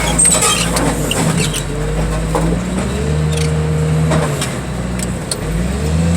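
Heavy diesel machinery, likely the car crusher's engine and hydraulic pump, running steadily, with a whine that rises and falls twice in the second half. Scattered sharp cracks sound over it.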